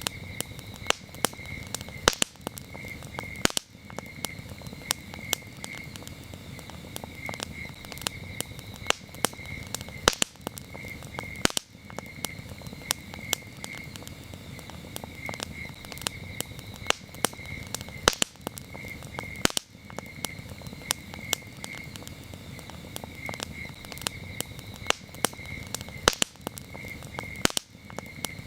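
Campfire crackling, with frequent sharp pops over a low rush of burning wood. Crickets chirp steadily in pulsed trains behind it.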